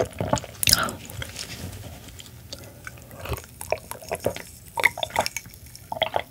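Close-miked chewing of raw silver pomfret sashimi with wet clicks of the mouth, then swallowing gulps of water from a glass mug in the second half.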